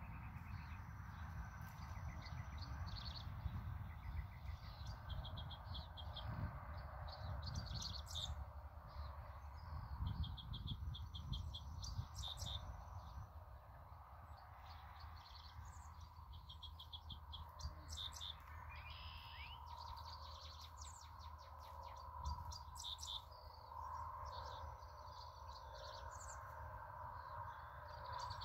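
Songbirds singing in the open countryside: short phrases of quick, repeated high notes that come back every few seconds, over a low steady rumble.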